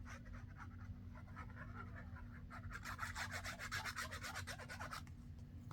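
Rapid back-and-forth rubbing on paper, light at first, then a quicker, louder run of strokes, about six or seven a second, that stops suddenly near the end.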